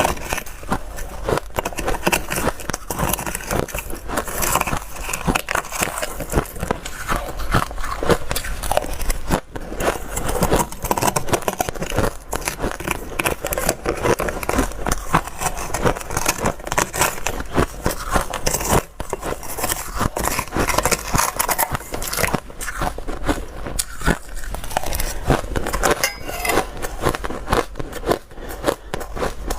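Close-up crunching of hard, dry ice being bitten and chewed: dense, rapid cracks and crackles, with brief pauses between bites.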